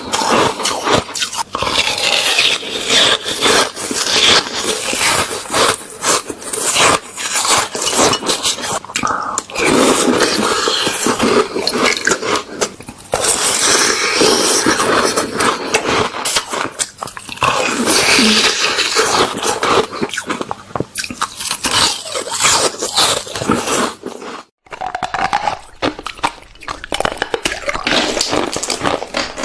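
Close-miked biting and chewing of ice filled with juice: a continuous run of loud, irregular, crackling crunches. There is a brief pause a little over three quarters of the way through.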